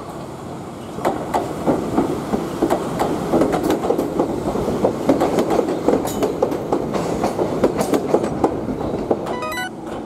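Ex-Shizuoka Railway 1000 series electric car passing close by, its wheels clattering over rail joints in quick, irregular clicks. Near the end comes a brief pitched tone.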